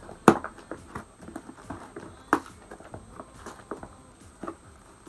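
A package being handled and opened: a run of small knocks and crackles, with two sharper clacks about a third of a second and about two and a half seconds in.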